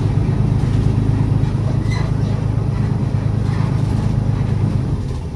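City bus engine and road noise heard inside the cabin while driving: a steady low drone that eases off slightly near the end.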